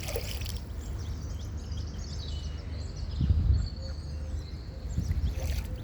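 Steady low outdoor background rumble with faint, high, thin bird chirps through the middle, and a short swell of low noise about three seconds in.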